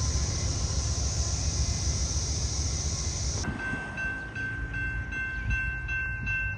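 A freight train rolling past with a steady rumble and hiss of wheels on rail, which cuts off abruptly about three and a half seconds in. Then a rapidly repeating ringing, typical of a railroad grade-crossing bell, with quieter low rumble beneath.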